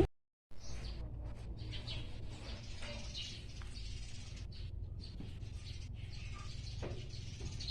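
Faint, scattered bird chirps over a low steady hum, starting after a brief dropout at the very start.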